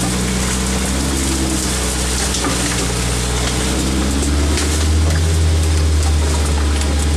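Off-road 4x4's engine running steadily as it crawls through brush, getting louder about four and a half seconds in, with a steady hiss over it.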